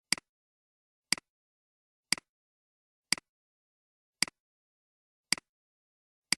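Sharp double clicks, a loud tick with a softer one right after it, repeating about once a second, with dead silence between them.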